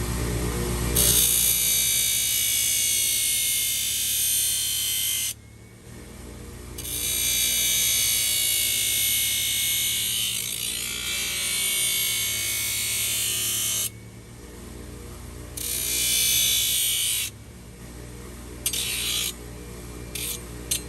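Power tool grinding or sanding on a horse's hoof, a high hiss in long runs of several seconds that start and stop abruptly, over steady background music.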